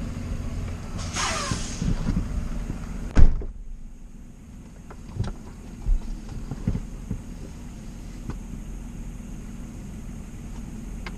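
Car engine idling with a steady low hum. A short falling squeal, then a single loud slam about three seconds in, like a car door shutting, after which the outside noise falls away. A few lighter knocks follow.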